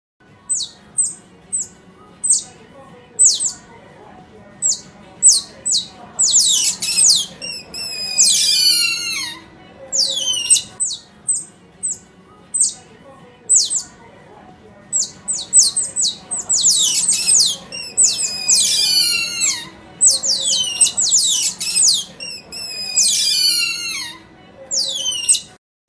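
A bird calling: sharp, high chirps, with phrases of quick notes that fall in pitch, repeated again and again.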